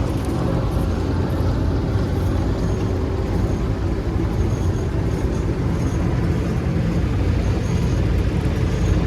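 Heavy diesel farm machinery engine running steadily at an even speed.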